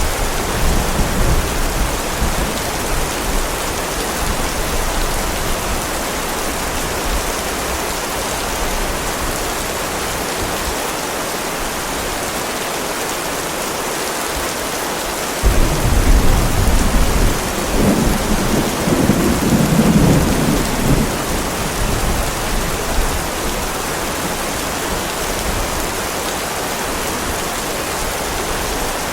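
Heavy rain falling steadily, with a rumble of thunder dying away in the first few seconds. Another peal of thunder starts suddenly about halfway through and rumbles for some five seconds.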